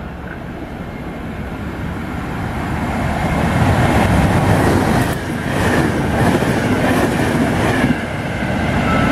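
Double-deck regional passenger train moving along the platform, its wheels running on the rails. The noise grows louder from about two seconds in, with scattered clacks later on.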